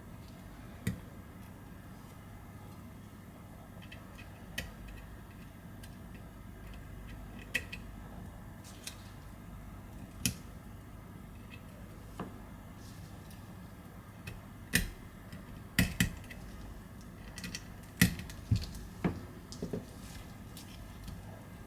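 Small metal tools and phone parts clicking and tapping during iPhone 11 disassembly, as parts are taken out of the phone's frame. The clicks are sparse at first and come more often in the second half.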